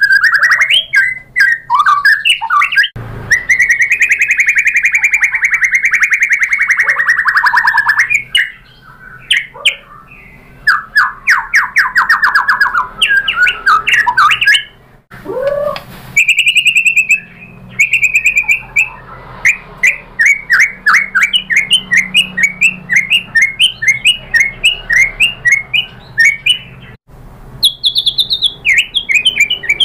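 White-rumped shama (murai batu) in full, loud song: a varied run of long slurred whistles, rapid trills and fast strings of repeated notes laced with sharp clicking notes, the bird showing off its learned repertoire (isian).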